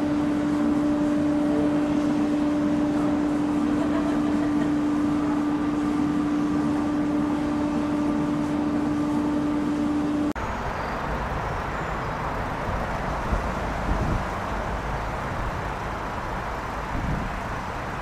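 A train's engine running with a steady droning hum that cuts off abruptly about ten seconds in, giving way to rumbling outdoor background noise with a few low thumps.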